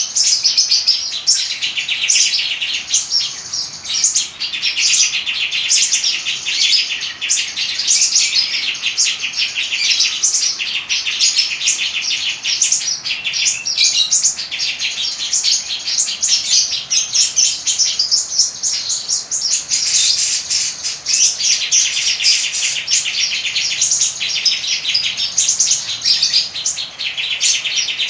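A songbird singing a fast, chattering song of rapid high chirps and trills, with a few short pauses.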